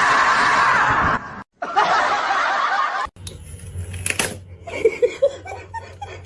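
Hearty human laughter for about three seconds, broken by an abrupt cut partway through. After that come quieter sounds with a few clicks and knocks.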